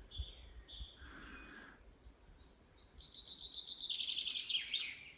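Small birds singing: short high chirps repeating about twice a second, then a fast trill of high notes from about halfway through that slides down in pitch at the end.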